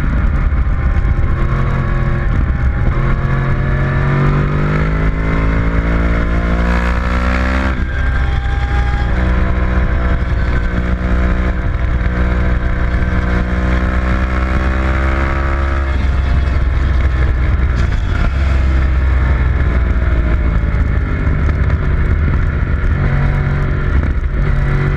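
A vehicle's engine at speed on a racetrack, over a heavy low rumble. It climbs in revs, drops sharply about eight seconds in as it shifts up, and holds steady. Then it winds down over several seconds and climbs again near the end.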